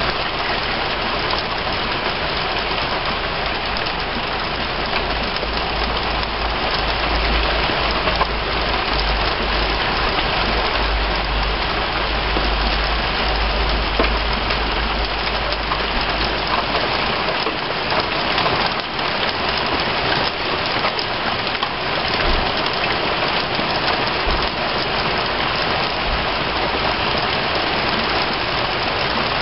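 Heavy rain pouring down and pattering on surfaces in a steady, dense hiss. A low rumble runs underneath and stops a little over halfway through.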